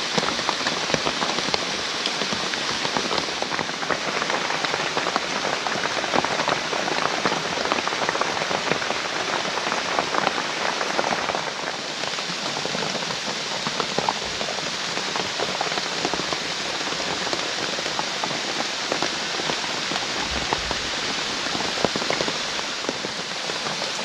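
Heavy rain falling steadily, a dense hiss of countless drops striking the surfaces around.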